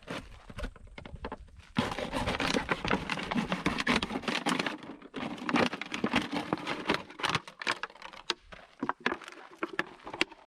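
Dense, irregular clicking, tapping and scraping, sparse for the first two seconds and then busy, like things being handled or shuffled about.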